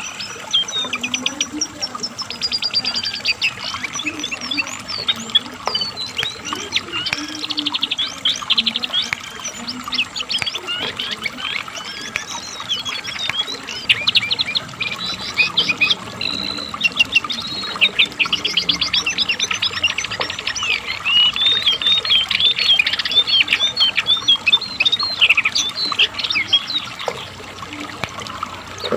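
Brown cingcoang (jongkangan) singing without a break: a long, high-pitched run of rapid, varied trills and chirps.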